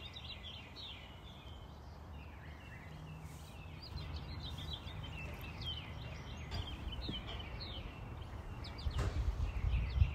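Birds chirping and singing in many short, high calls over a low steady rumble. The rumble grows louder near the end.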